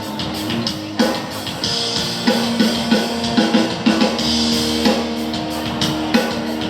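Live band music with guitar and drum kit playing over the PA during a sound check, with a drum hit roughly every half second to second.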